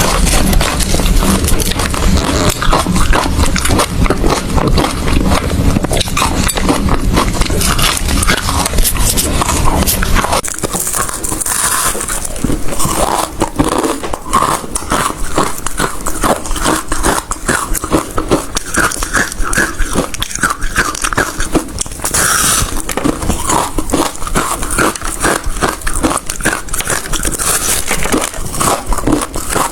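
A person biting and chewing hard ice close to the microphone: dense, rapid crunches that run on continuously, with a low rumble under the crunching that drops away about ten seconds in.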